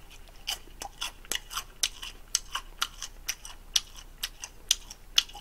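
Chewing crunchy deep-fried gimmari, seaweed rolls stuffed with buldak noodles: a run of sharp, crisp crunches at an uneven pace, several a second.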